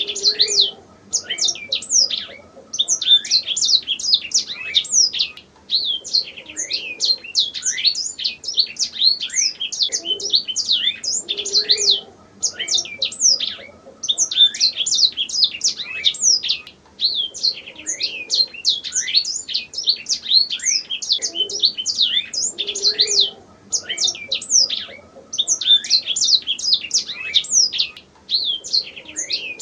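Domestic canary singing, long fast phrases of high, rapidly repeated falling notes and trills with brief pauses between phrases every few seconds.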